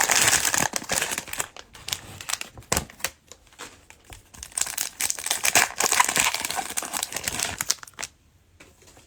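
Cellophane plastic wrapping crinkling as it is handled and pulled open, in irregular bursts that die away about eight seconds in.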